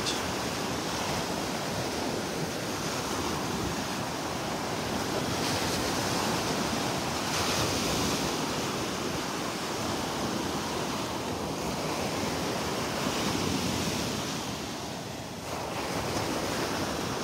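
Gulf of Mexico surf washing on the beach: a steady hiss that swells and eases, with wind blowing on the microphone.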